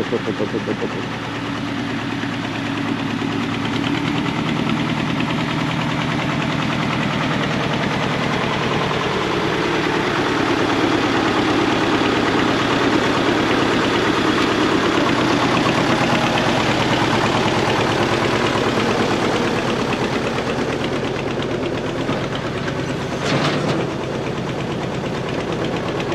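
Old diesel tractor engine running with a knocking clatter, getting louder over the first several seconds and shifting in pitch as it works. A short sharp clank comes near the end.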